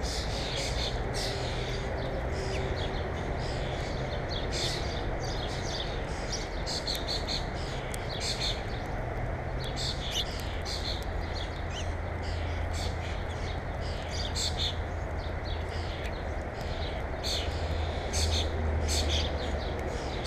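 Small songbirds chirping: many short, sharp chirps following one another, over a steady low background rumble.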